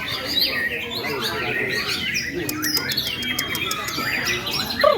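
White-rumped shama singing a fast, varied song of chirps, trills and whistled glides, overlapped by the songs of other caged songbirds in a dense chorus.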